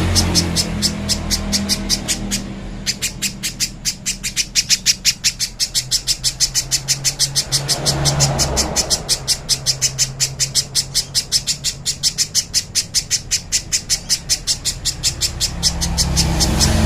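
Spiderhunter (pijantung pisang) singing a long, unbroken run of sharp, evenly repeated high notes, about five a second. A low rumble rises and fades in the background about halfway through and again near the end.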